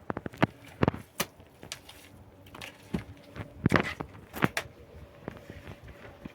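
Irregular sharp knocks and clicks of hard objects, about a dozen, the loudest a cluster around the middle, with a faint steady hum coming in after it.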